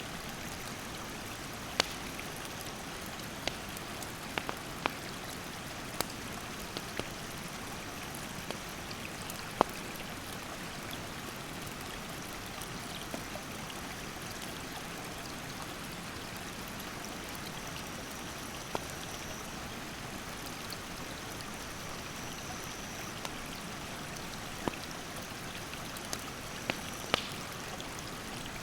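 Mountain stream rushing steadily, with a wood campfire crackling over it in sharp, irregular pops.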